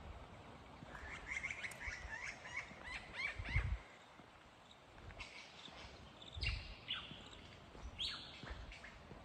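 Superb lyrebird singing a medley of mimicked calls: a fast string of chirps and trills for about three seconds, then several sharp falling whistles. A couple of low thumps come through under the song.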